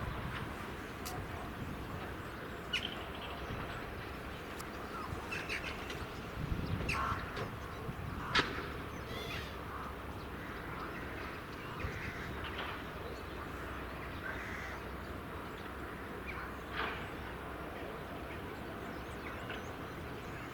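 Birds calling now and then with short calls over a steady low rumble; the sharpest call comes about eight seconds in.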